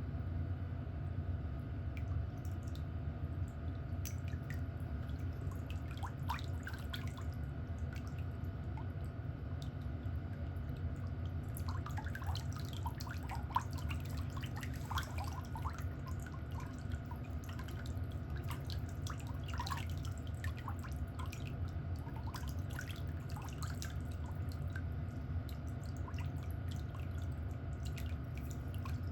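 Light clicking and tapping of small pedicure tools working on a toenail, over a steady low hum.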